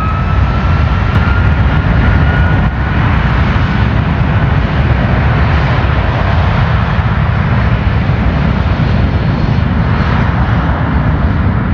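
Jet airliner engines running at high thrust close by: a rising whine that levels off about two to three seconds in, over a loud, steady roar.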